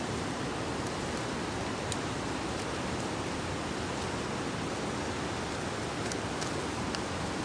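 Steady, even rushing noise, like flowing water or wind, with a few faint short ticks.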